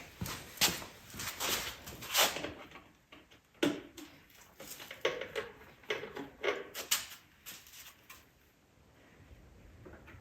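Parts being handled on an ATV under repair: irregular knocks and clatters, several sharp ones close together in the first few seconds, then scattered ones, going quieter near the end.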